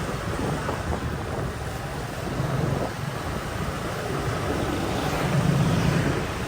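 Wind rushing over the microphone of a moving motorbike, over the low rumble of the bike's engine and street traffic; the low rumble swells briefly around the middle and again near the end.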